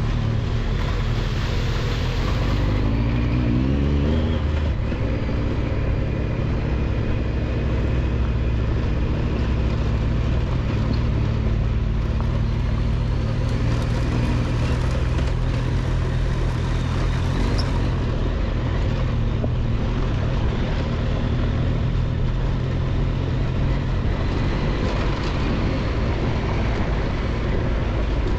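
Triumph Tiger 1200 XCX's three-cylinder engine running steadily under way on a dirt road, with a brief rise in revs about three seconds in and constant road and wind noise underneath.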